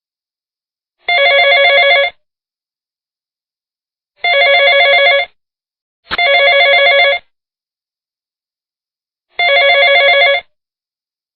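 Telephone ringing: four fast-warbling electronic rings, each about a second long, separated by silence.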